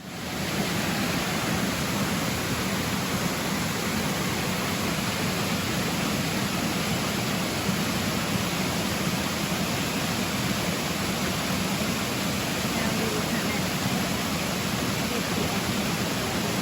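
Steady rushing of a rocky stream, a constant, even hiss of flowing water.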